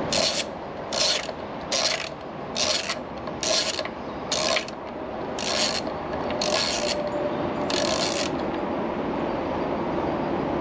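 Hand ratchet wrench being worked on a bolt in short strokes, about one rasping click-run a second, nine or so in a row, stopping near the end.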